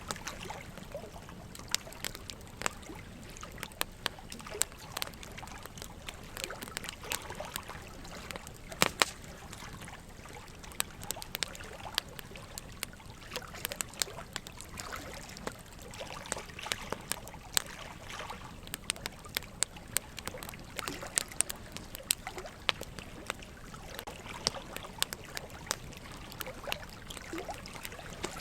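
Wood fire crackling, with frequent irregular sharp pops; the loudest comes about nine seconds in. Underneath runs a steady trickle of water.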